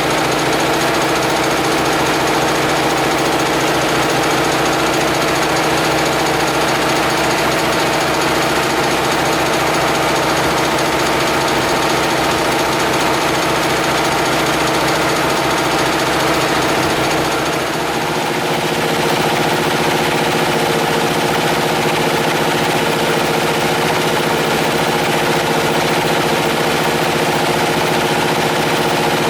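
Homemade air compressor running with a fast, even pounding rhythm; its note dips briefly and changes about two-thirds of the way through, then it runs on steadily.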